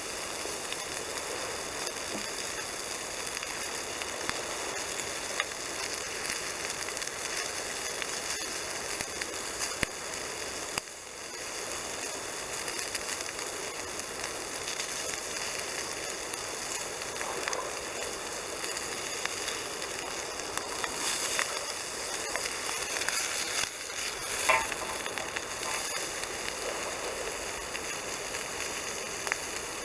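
Bacon and sausages sizzling in a frying pan over a wood campfire: a steady hiss of spitting fat with scattered small pops and crackles, and one sharper pop late on.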